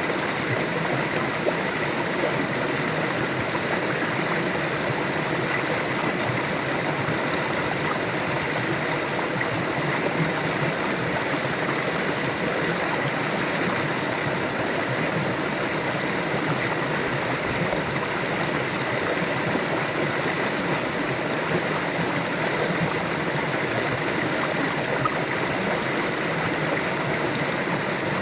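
River water flowing steadily over rocks in a continuous rushing, gurgling sound without pauses.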